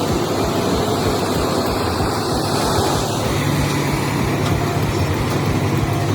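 Heavy vehicle engine running steadily, a low hum under dense mechanical noise.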